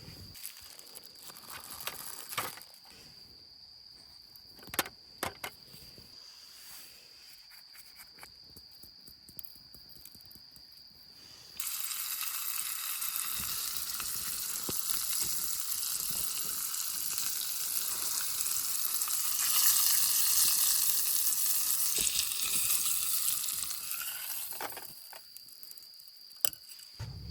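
Food sizzling in a hot pan: the sizzle starts suddenly a little under halfway in, swells, then dies away near the end. Before it come a few light clicks.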